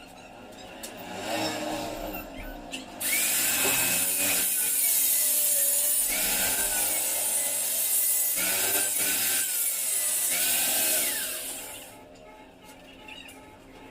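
Loud rasping back-and-forth sawing strokes, starting about three seconds in and stopping suddenly about twelve seconds in.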